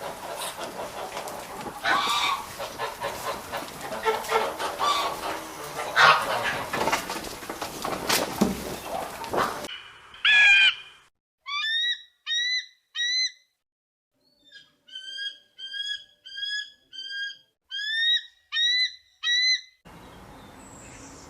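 Bird calls in two recordings. First comes about ten seconds of dense, overlapping calling over background noise. Then a clean series of short rising chirps follows, two to three a second in short runs, stopping about a second before the end, where only faint outdoor background noise remains.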